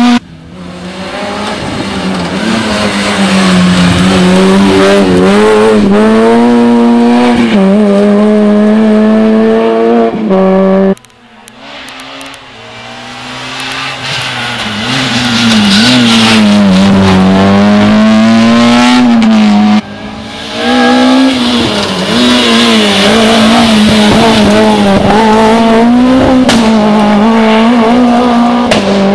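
Rally cars at full throttle on a closed special stage, engines held at high revs with the pitch rising and dipping through gear changes as each car comes up loud and passes. The sound drops off abruptly about 11 and 20 seconds in, and each time a new car builds up from quieter to full loudness.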